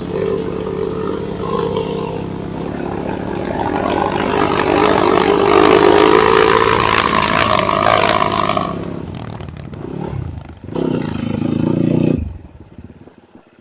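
Enduro dirt-bike engine running under load. It grows louder to a peak about halfway, eases off, then cuts out abruptly near the end.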